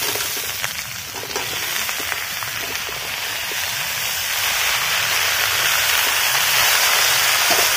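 Freshly chopped vegetables sizzling in hot oil in a steel karahi as they are tipped in and turned with a metal spatula, the sizzle growing steadily louder; a few light spatula scrapes near the start.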